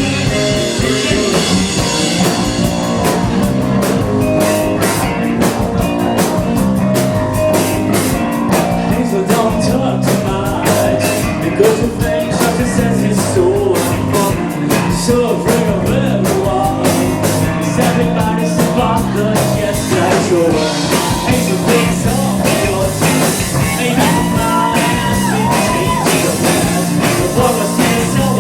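Live rock band playing a song: electric guitar, bass and drum kit, with singing; the cymbals get louder and brighter about two-thirds of the way through.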